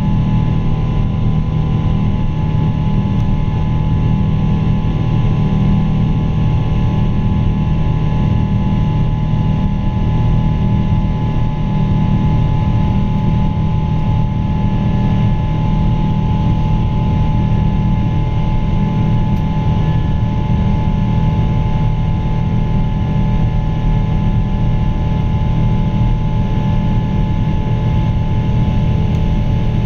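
Pratt & Whitney PW4000 turbofan engines of a Boeing 777-200 running at steady power: a deep, even rumble with several steady whining fan tones on top.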